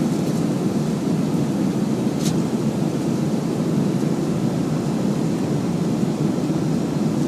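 Steady roar inside the cabin of a Boeing 737-300 in flight: CFM56 engine and airflow noise, even and unbroken, with one brief hiss about two seconds in.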